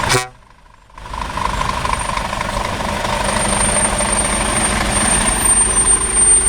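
Truck engines running as a convoy of lorries passes, with a steady rumble and road noise. The sound drops out almost completely for under a second just after the start, then carries on.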